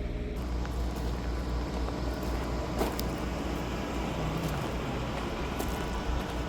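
1998 Chevrolet Tahoe being driven: its engine runs steadily under road and tyre noise, with a few sharp clicks about three seconds in.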